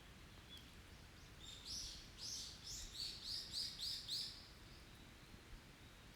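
A songbird singing one short phrase of about eight high, downward-slurred notes, roughly three a second, starting about a second and a half in.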